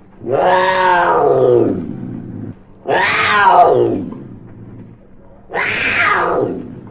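Digitally edited animal-cry sound effect presented as a hamster: three drawn-out, cat-like cries, each rising and then sliding down in pitch, with short gaps between them.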